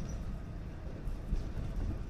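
A moving train, heard as a steady low rumble.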